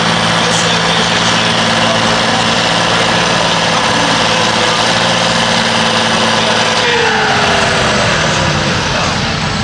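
Pulling tractor's engine running loud and steady at high revs, with a high hiss over it. About seven seconds in, a whine falls in pitch as it winds down.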